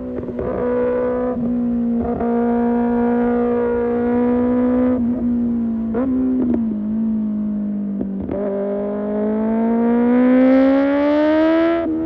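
Kawasaki ZX-6R 636 cc inline-four with an Arrow Pro Race exhaust, pulling hard under way. The note holds fairly level with several short breaks, sags a little past the middle, then revs climb steadily over the last few seconds.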